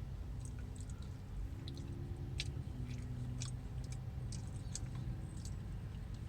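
Close-up chewing of a soft, cheesy mac and cheese and chicken mouthful: irregular wet mouth clicks and smacks over a low steady rumble, typical of a car's cabin while stopped.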